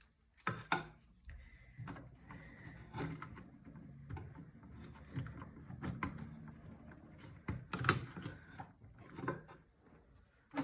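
Handling noise from cables and parts being moved inside a wooden PC case: scattered light clicks and knocks with soft rustling, a few sharper knocks near the end.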